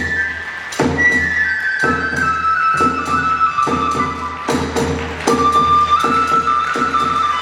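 Kagura hayashi music: a transverse bamboo flute playing a slowly falling melody over drum beats that come about once a second.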